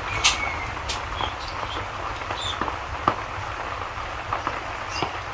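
Steady rain with a low background rumble, broken by scattered sharp pops and crackles from a wood fire in a fireplace.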